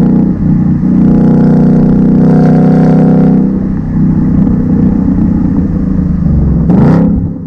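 2019 Ford Mustang GT's 5.0-litre V8 on its stock exhaust, running steadily under way. Near the end the revs rise briefly, and then the engine sound drops away.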